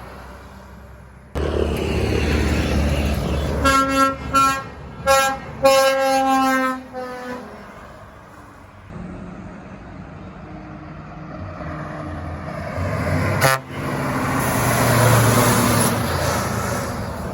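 A truck passing with its engine running, sounding its horn in a run of short toots and then one longer blast. Later a second loud vehicle passes, its noise swelling up and fading.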